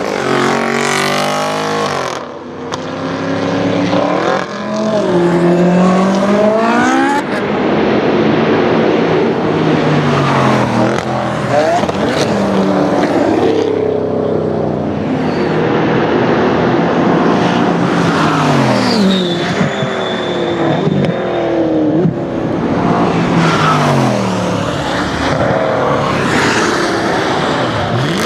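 Tuned Audi RS6 DTM's twin-turbo V8 through a Milltek exhaust, accelerating hard again and again. The engine note climbs in pitch, drops back at each gear change or lift-off, then climbs again.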